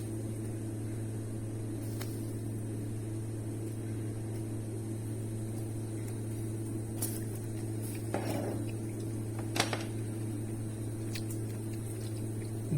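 Steady low electrical hum, like a fan or appliance motor, with a few faint clicks and a brief rustle about eight seconds in.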